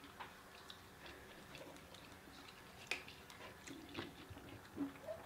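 Faint eating sounds: quiet chewing and scattered small mouth clicks, with a few sharper clicks about three and four seconds in.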